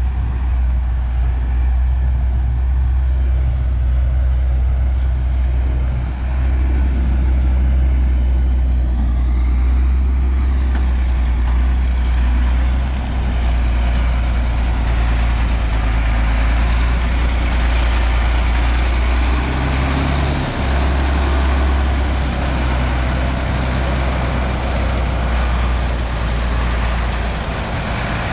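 Heavy diesel harvest machinery running steadily: a deep, constant engine drone under a dense mechanical rush.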